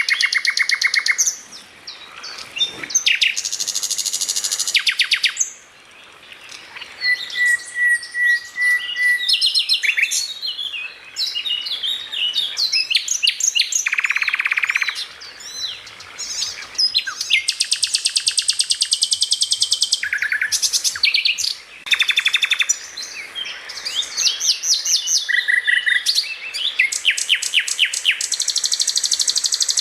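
A songbird sings a fast, varied song of rapid buzzing trills, sharp chirps and a short run of clear whistled notes, with only brief pauses between phrases.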